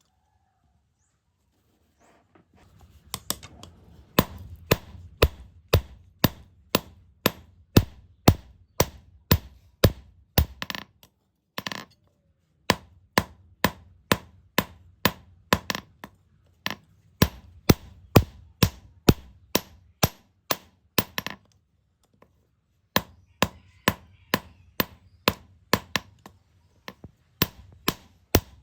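Hand hammer striking steel on an anvil in steady blows about two a second, starting about three seconds in, in runs of several seconds broken by short pauses.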